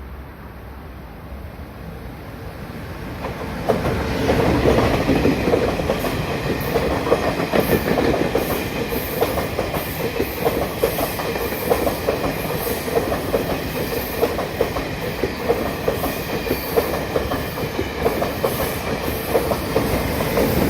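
Tze-Chiang express train passing through a station at speed: a rising rumble as it approaches, then a steady loud run of wheels clicking over the rail joints in a regular rhythm.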